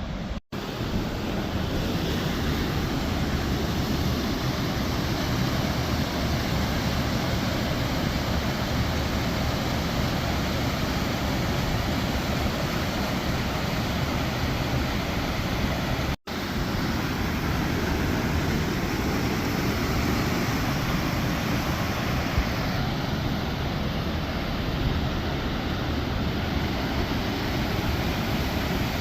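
Waterfall rushing in a steady, even roar. The sound drops out briefly twice, about half a second in and again about halfway through.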